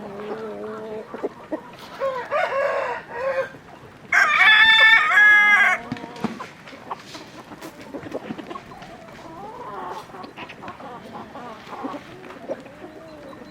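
A rooster crows once, loud and drawn out, about four seconds in. A softer call comes just before it, and chickens cluck around it.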